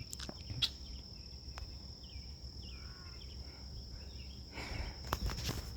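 Steady, high-pitched drone of insects, a cricket-like chorus, with some rustling and clicks near the end.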